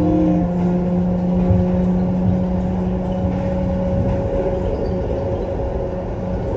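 Airport people-mover train running at speed through its tunnel: a steady motor hum with a low tone and a higher one over a continuous running rumble. The low tone eases about four seconds in.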